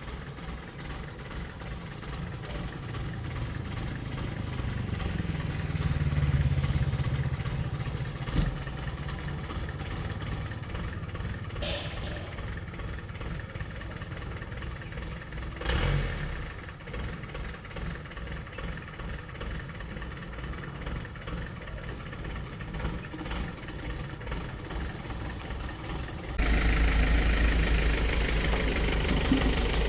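A vehicle engine running steadily with an even low pulse, swelling briefly about six seconds in, with a couple of single knocks. It turns suddenly louder a few seconds before the end.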